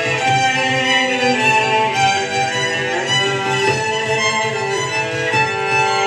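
Celtic fiddle tune played on solo violin with a string ensemble accompanying, sustained melody notes over a steady low pulsing beat.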